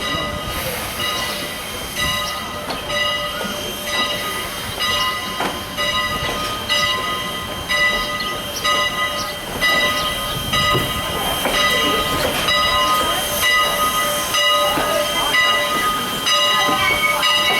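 Strasburg Rail Road steam locomotive No. 89 moving slowly along the track. A ringing of several pitched tones, like a bell, cuts in and out about once a second over the rumble of the train.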